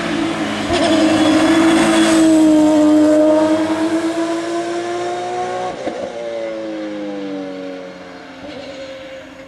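Porsche 997 GT3 RSR race car's flat-six engine running hard at speed, with a brief break in the note about six seconds in. After that its pitch slowly falls and it fades as the car draws away.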